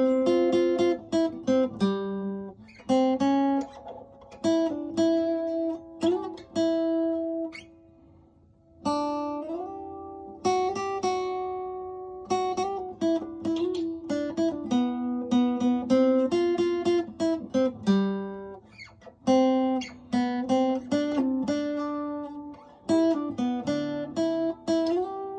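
Solo acoustic guitar, picked notes ringing into one another with slides between some of them, pausing briefly about eight seconds in.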